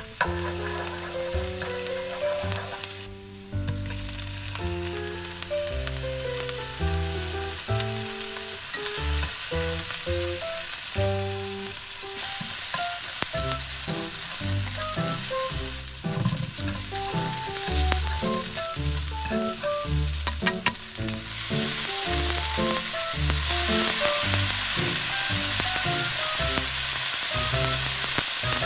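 Garlic and then shrimp sizzling in olive oil in a hot nonstick pan, stirred with wooden chopsticks, with a few light taps. The sizzle grows louder about three-quarters of the way through. Soft background music with a plucked melody and bass notes plays throughout.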